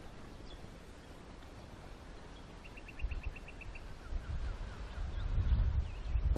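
Outdoor ambience with a bird giving a quick run of about nine short, high chirps a little before the middle, followed by a few softer falling calls. A low rumble builds through the second half.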